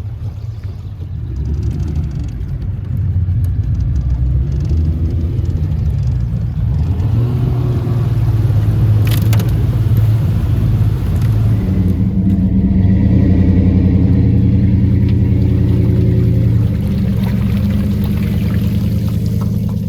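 An engine running under load, growing louder about two seconds in and shifting up in pitch twice as it speeds up, then easing off near the end.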